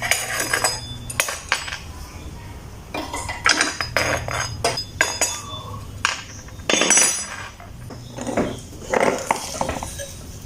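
Irregular metallic clinks and scrapes of a long T-wrench and socket working on the bolts of a motorcycle's exhaust pipe.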